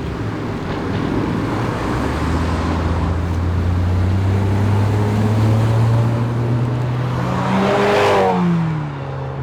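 A car engine running with its note slowly rising, then passing close by about eight seconds in, the pitch dropping as it goes away.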